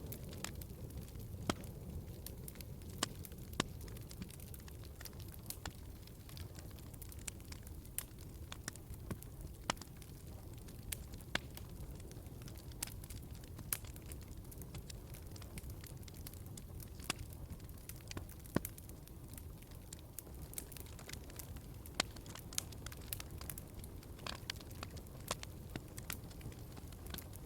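Wood fire crackling in a fireplace: a steady low rumble with frequent sharp pops and snaps at irregular moments.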